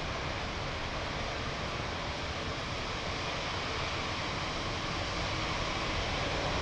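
Steady rushing noise of a Boeing 787-9 Dreamliner's jet engines at take-off power, heard from the ground, getting slightly louder near the end.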